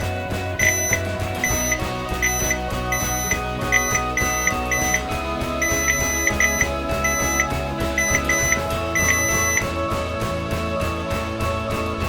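Multimeter continuity buzzer giving a string of short, irregular beeps, a few held longer, that stop shortly before the end, with background music underneath. Each beep signals that the probes have found a connection between a pair of charger socket pins.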